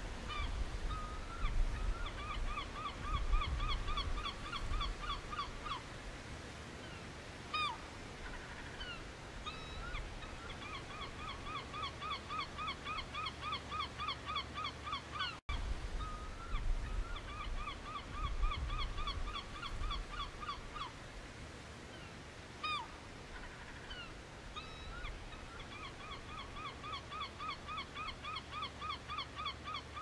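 A bird calling in long runs of quick, evenly repeated harsh notes, about five a second, run after run, over a low rumble.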